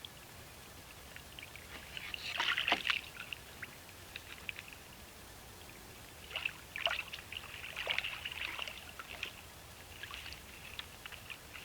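A North American beaver handling branches at the water's edge: irregular splashing and crackling of wood and water, loudest about two seconds in and again from about six to nine seconds in.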